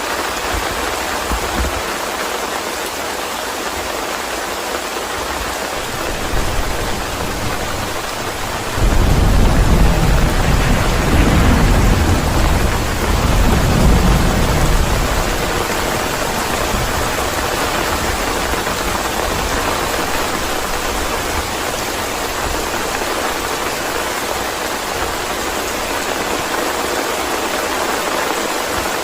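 Steady rain with a clap of thunder that breaks in suddenly about nine seconds in, rumbles deeply in two swells for about six seconds, then fades back under the rain.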